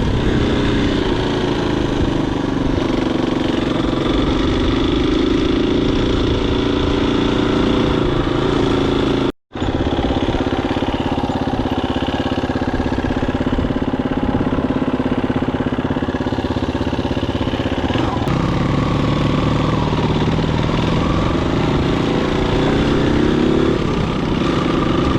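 Husqvarna FE250 dirt bike's single-cylinder four-stroke engine running while riding, its pitch rising and falling with the throttle. The sound cuts out completely for a split second about nine seconds in.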